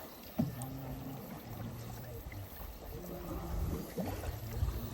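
Canoe on a river: low, steady water noise around the hull and paddle, with a short knock about half a second in and faint voices in the background.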